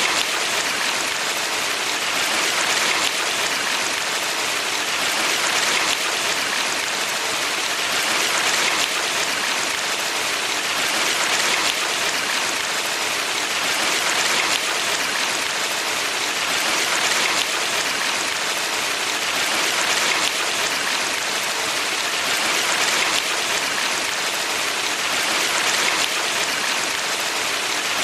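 Steady rushing water of a valley stream, a constant hiss that swells gently about every three seconds.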